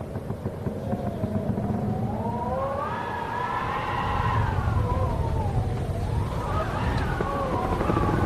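Wind howling, its whistling pitch gliding slowly up to a peak about halfway through and falling away, then rising again near the end, over a steady low rumble.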